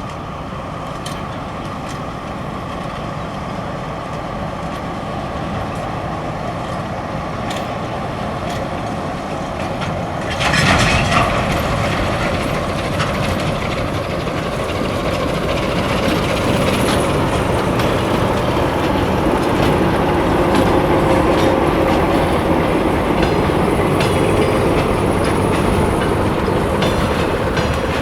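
A train approaching and passing, its noise growing steadily louder, with a sudden loud surge about a third of the way in and wheels clattering over the rails.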